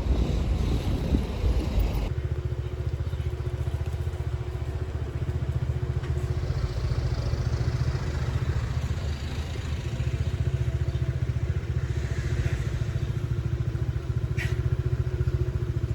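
Steady low engine drone with a fast, even pulse, as from a running motor vehicle; the sound changes abruptly about two seconds in, then holds steady.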